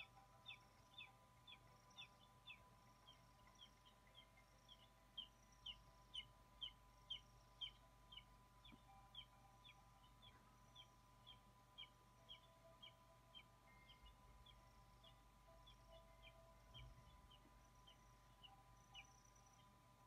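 Faint rapid series of short, high bird calls, each a quick downward slur, about two a second, growing sparser near the end, over a low steady hum.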